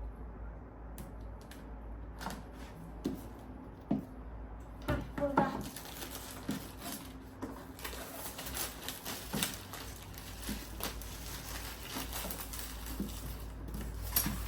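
Handling of product packaging as a box is opened: scattered clicks and knocks, then denser rustling and crinkling from about five seconds in.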